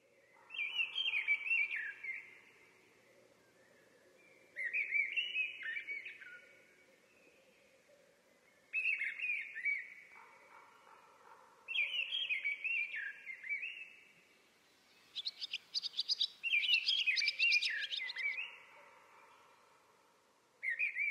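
Birdsong: a small songbird sings short warbling phrases of quick chirps and downward sweeps, six of them with pauses of one to two seconds between. About two-thirds through, a phrase is joined by higher, thinner chirps. A faint low steady hum runs underneath.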